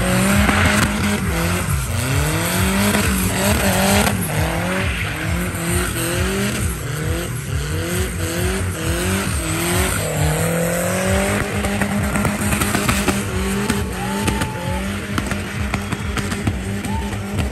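Chevette with a 1.8 VW AP engine and a crossflow Golf cylinder head run hard through donuts, the revs climbing again and again in quick pulls and then held high near the end, with the tyres squealing as they spin on the asphalt.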